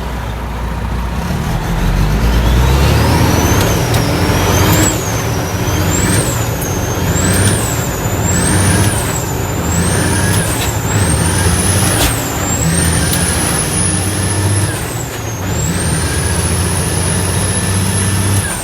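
Heavy diesel dump truck driving, its engine running steadily with a high whine that climbs over the first few seconds, then rises and drops again and again, and holds high for two stretches near the end.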